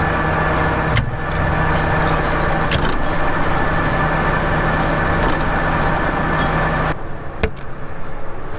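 Engine running steadily at a constant speed, with a steady hum and whine. It stops abruptly about seven seconds in, leaving a quieter background with a sharp click.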